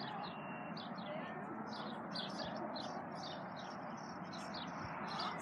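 Small birds chirping, a steady run of short high chirps several times a second, over a constant background hiss.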